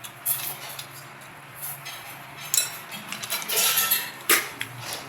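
Irregular clinks and scrapes of utensils against dishes or cookware, with a few sharper clinks in the second half.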